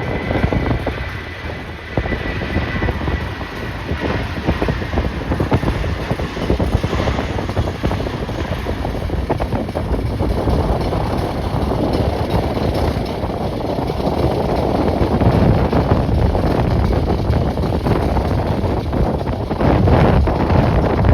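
Strong gusty wind buffeting the microphone over the noise of jet airliner engines. A high steady whine fades away over the first few seconds, and the noise grows louder in the second half.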